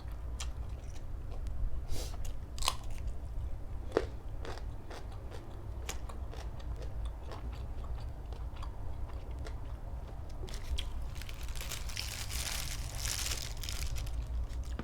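Close-miked chewing and biting, with scattered wet mouth clicks and a denser stretch of crisp crunching from about ten and a half seconds to fourteen.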